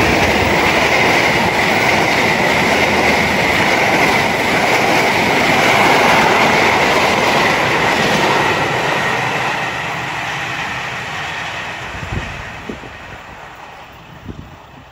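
Passenger train carriages rolling past on the rails at speed, a loud steady rumble of wheels on track, which fades away over the last few seconds as the train moves off into the distance.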